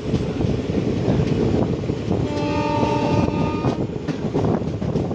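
Passenger train running on the rails, with a constant rumble and rapid knocking of the wheels. About two seconds in, a train horn sounds for about a second and a half.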